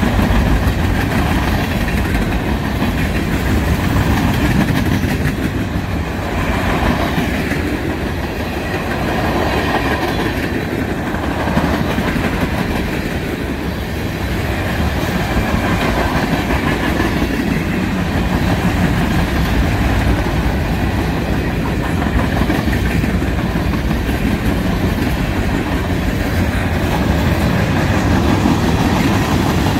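Freight train of boxcars and tank cars passing at speed on the near track: a loud, steady rumble with the clatter of steel wheels over the rails.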